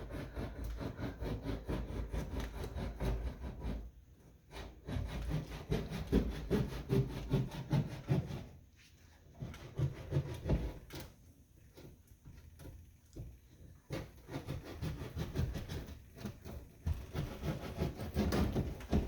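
Rhythmic rasping strokes of a hand tool working back and forth into a wall. The strokes come in several runs of a few seconds each, with short pauses between them, as the wall is opened further to reach a leaking pipe.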